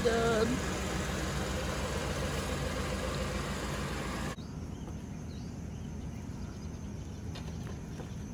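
Cadillac sedan's engine idling steadily, with a short vocal sound over it at the very start. About four seconds in it cuts off abruptly to a quieter, even outdoor background.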